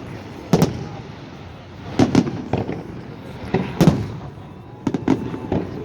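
Fireworks salute going off: a string of sharp bangs at irregular intervals, several in quick pairs, each with a short rumbling tail.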